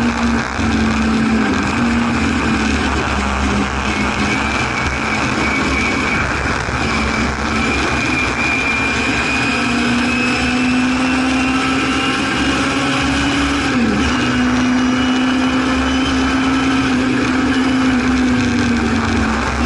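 Singer Chamois race car's rear-mounted Hillman Imp four-cylinder engine running hard under racing load, heard from inside the cabin with wind and road noise. Its pitch wavers, climbs slowly, dips sharply once about fourteen seconds in and picks up again.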